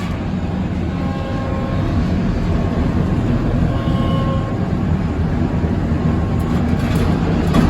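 Circular sawmill running steadily: a continuous low engine drone with the spinning saw.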